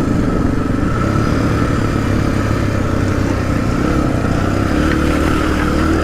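Suzuki DR-Z250's single-cylinder four-stroke engine running at a steady speed.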